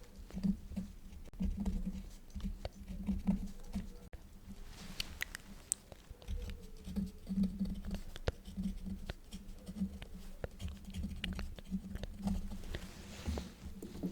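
Quill pen scratching across paper in short, irregular strokes, with small taps and clicks between them.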